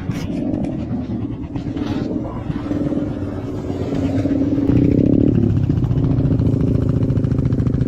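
Motorcycle engine running, getting louder and rising in pitch about four to five seconds in, then holding a steady note. A few sharp clatters sound in the first two seconds.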